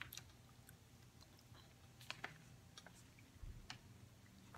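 Faint chewing of a piece of beef jerky, with a few soft mouth clicks now and then.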